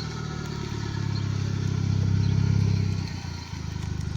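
A vehicle engine running as it drives off, growing louder for a couple of seconds and then falling away sharply about three seconds in.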